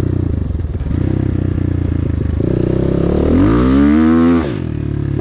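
KEWS K16 PRO enduro motorcycle engine running, revving up with a rising pitch about three seconds in, then dropping back sharply near the end.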